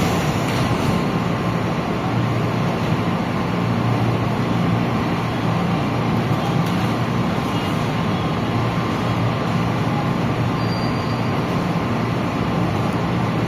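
Steady rumble and hum of a metro train, even in level throughout with no clear arrival or departure.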